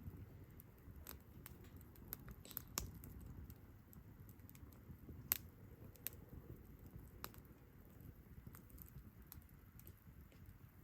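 Wood campfire crackling: irregular faint snaps and pops over a low steady rumble, with one sharper pop about five seconds in.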